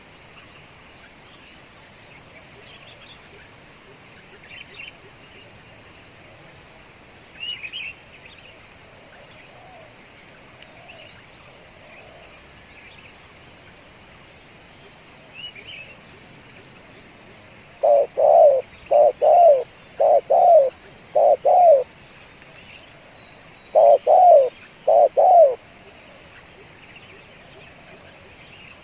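Spotted dove cooing: after some faint chirps from small birds, a run of four loud, low coos, then three more after a short pause. A steady high insect drone lies underneath.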